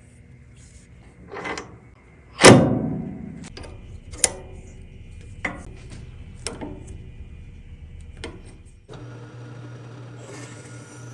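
Metal tools and parts being handled in a machine shop: one loud clank that rings on about two and a half seconds in, then a few lighter clicks and taps. Near the end a machine motor switches on and runs with a steady hum.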